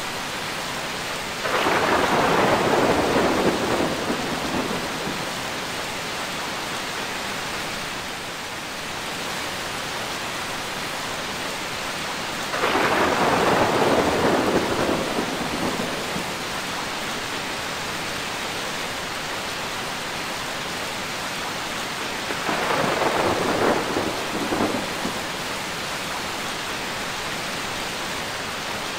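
Steady rain falling, with three claps of thunder about ten seconds apart, each breaking out suddenly and rumbling away over two to three seconds.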